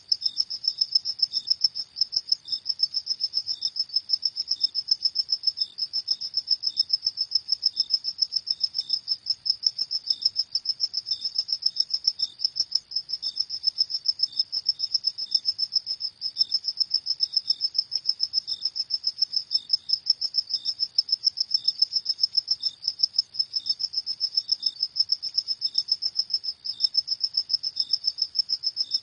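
Crickets chirping: a fast, high-pitched pulsing chirp that goes on without a break, with a second, slightly lower cricket chirping at a slower, regular beat.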